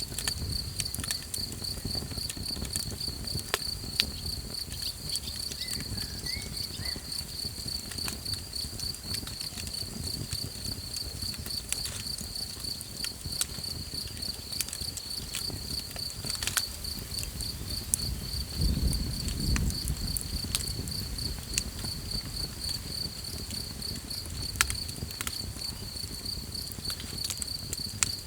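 Night insects chirping in a steady, fast-pulsing high trill over a campfire crackling with scattered sharp pops. About two-thirds of the way through, a brief low rumble swells and fades.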